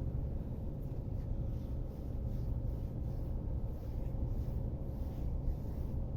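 Calm sea breaking gently on a beach: a steady low rumble of small surf with faint, soft hissing washes coming and going.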